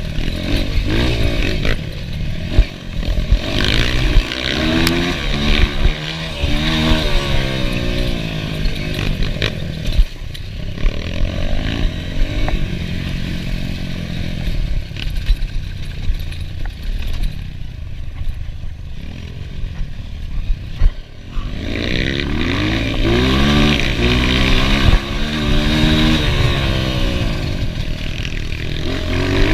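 Enduro motorcycle engine revving up and down as the throttle is worked over and over, easing off to a lower, quieter running in the middle before climbing again, with scattered knocks and clatter.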